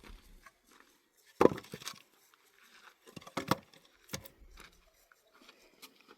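A few sharp knocks and clatters, the loudest about a second and a half in, with two more around three and a half and four seconds in.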